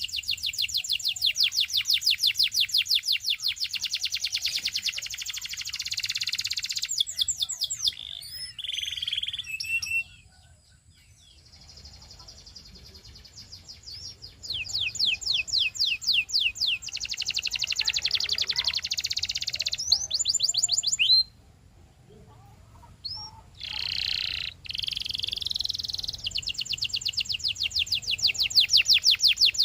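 Domestic canary singing: long, rapid trills of repeated notes, broken by short phrases and two brief pauses, one about ten seconds in and one past the twenty-second mark.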